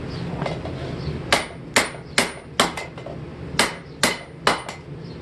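Hand hammer striking a hot steel hammer head on an anvil, about seven sharp ringing blows in two quick groups starting about a second in, to straighten an edge that is off. A steady low hum runs underneath.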